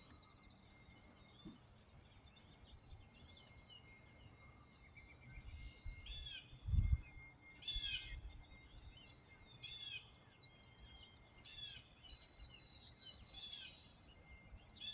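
A songbird sings the same short high call over and over, about every one and a half to two seconds from about six seconds in, with faint chirps before it and a thin steady high tone behind. There is one low thump near seven seconds in.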